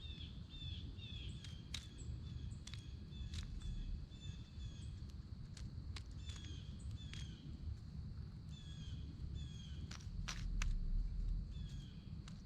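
Small birds chirping over and over in short, high, slightly falling notes, with scattered sharp taps and a steady low outdoor rumble.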